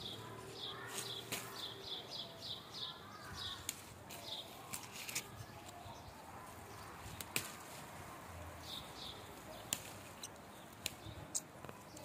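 A bird chirping in quick series of short, high notes, several a second, through the first few seconds and again briefly later on. Now and then there are sharp clicks and rustles from leafy branches being handled.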